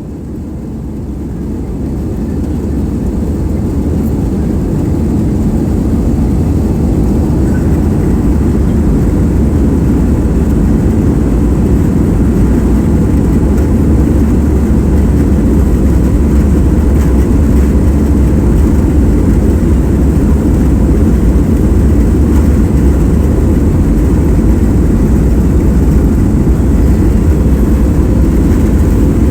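Airliner engines at takeoff power: a loud, deep rumble that builds over the first few seconds, then holds steady through the takeoff run.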